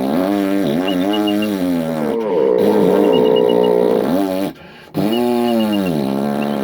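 A dog snoring loudly in long, droning, pitched snores that run one into the next, with a short break about four and a half seconds in. Faint high squeaks recur once in each snore.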